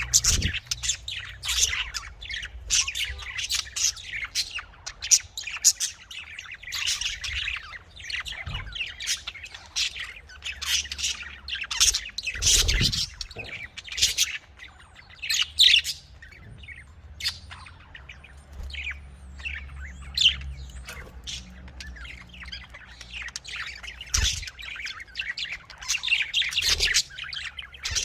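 Budgerigars chirping and chattering in quick, overlapping high calls, with a few dull low thumps.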